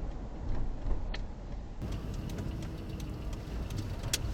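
Low, steady rumble of a vehicle heard from inside the cabin, with a few scattered sharp clicks, one about a second in and two near the end.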